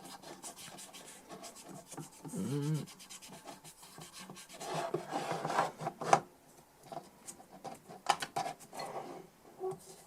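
Irregular scratchy scrubbing and rubbing strokes as grime is cleaned off a Millenium DI box with isopropyl alcohol.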